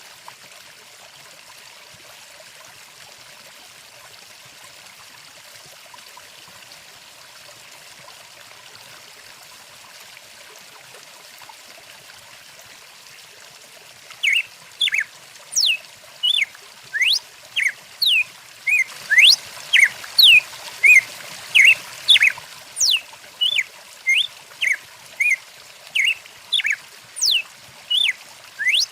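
Stream water trickling steadily. About halfway through, a songbird starts calling over it: a quick, repeated series of short, sweeping whistled notes, about two a second and much louder than the water.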